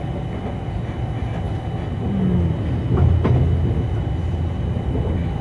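Double-decker InterCity train running on the track, heard from inside the carriage as a steady low rumble. It swells for a second or two about halfway through, with a single knock a little past three seconds in.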